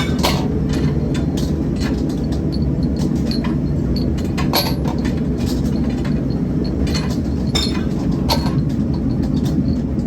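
Metalworking shop machinery running with a steady low rumble, with irregular sharp metallic clinks and clanks every half second to a second.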